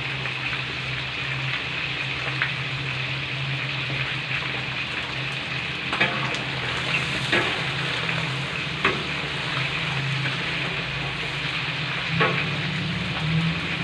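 Chicken pieces frying in hot oil in an aluminium wok: a steady sizzle. A metal spatula stirring and turning the pieces clinks and scrapes against the wok about five times. A low steady hum runs underneath.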